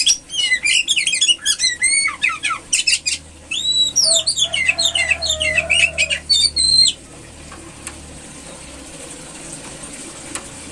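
Female Oriental magpie-robin calling in a rapid string of short chirps and sliding whistled notes, which stop about seven seconds in.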